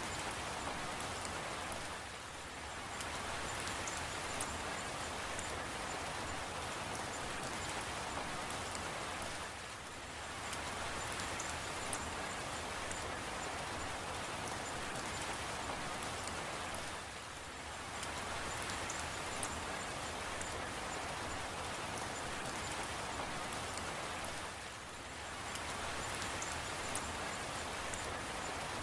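Steady rain falling, an even hiss with small drops ticking. It dips briefly and comes back about every seven and a half seconds, four times.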